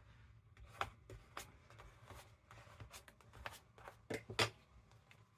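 Paper being handled and moved about on a journal page: scattered short rustles and light taps, with a louder pair about four seconds in.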